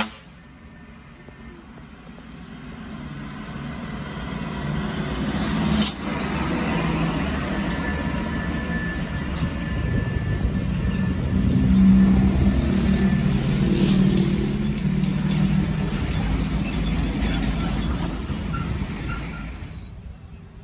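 Heavily overloaded sugarcane truck-and-trailer's diesel engine labouring as the rig draws near and passes, growing louder to a peak about halfway through and fading near the end. A sharp knock sounds about six seconds in.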